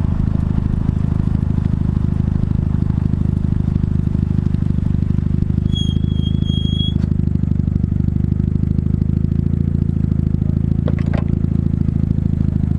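1989 Mazda RX-7 GTU's two-rotor rotary engine running hard at fairly steady revs, its exhaust a fast buzzing pulse, heard from outside the car by the front wheel. About six seconds in a thin high squeal lasts about a second, and a couple of sharp ticks come near the end.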